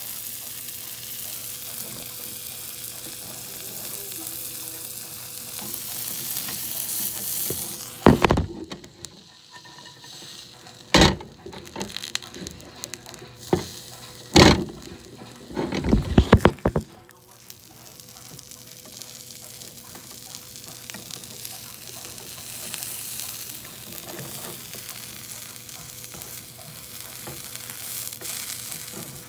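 Grilled cheese sandwich frying in a pan with a steady sizzle. The sizzle is broken about a third of the way in by several loud knocks over roughly nine seconds, then runs on steadily.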